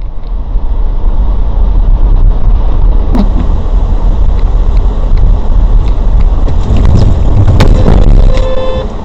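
Loud, steady road and engine rumble from a moving car as picked up by a dashcam microphone, with scattered light clicks. A short, single pitched tone sounds near the end.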